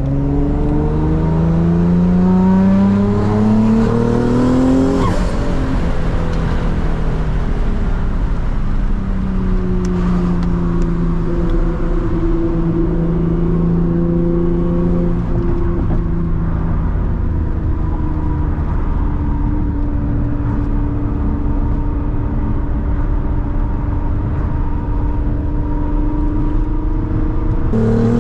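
Twin-turbo Nissan 350Z's VQ35DE V6 under way: the revs climb for about five seconds, drop sharply at a gear change, then hold steady at cruise, and start climbing again right at the end.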